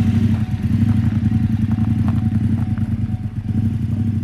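KTM 1290 Super Adventure S motorcycle's V-twin engine running steadily, with a few light knocks.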